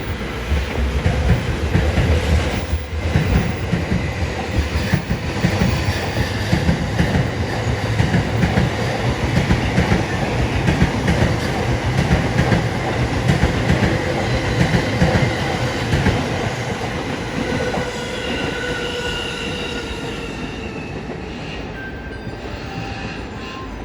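Doctor Yellow, the 923-series Shinkansen inspection train, passing at low speed: a loud rumble of wheels on rail with clicking over the joints and faint wheel squeal. The rumble fades away over the last several seconds as the train moves off.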